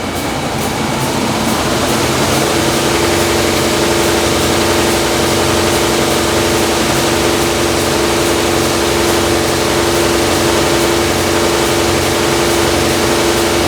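Extrema 36-inch planer sander with its second head motor coming up to speed on a Y-delta soft start, alongside the already-running first head and feed. The noise grows over the first two to three seconds, then settles into a steady hum.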